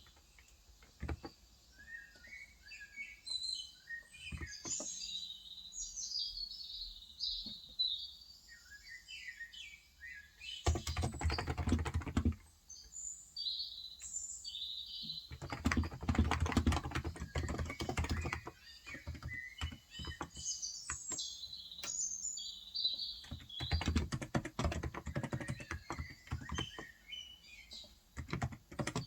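Typing on a Cox Endeavour electrostatic capacitive tenkeyless keyboard with 35 g switches, in three runs of rapid keystrokes with single key presses between. Birds chirp throughout.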